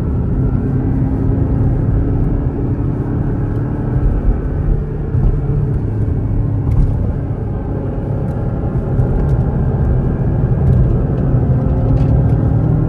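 Porsche 718 Cayman GTS's naturally aspirated 4.0-litre flat-six running hard at track speed, heard from inside the cabin. The engine note holds fairly steady with small rises and dips, over heavy tyre and wind noise.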